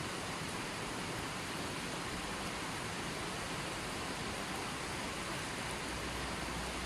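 Running water from a small natural spring, a steady even rushing without breaks.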